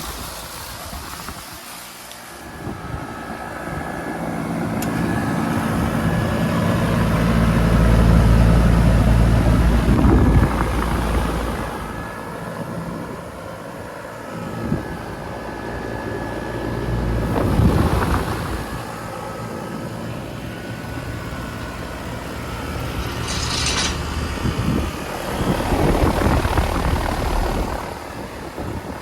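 Outdoor central air conditioner condensing units running: a steady compressor hum and a tone from the condenser fan, under a low rumble that swells and fades several times. A short hiss comes about three-quarters of the way through.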